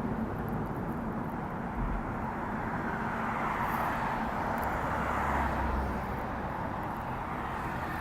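Steady road traffic noise, swelling as a vehicle passes by in the middle.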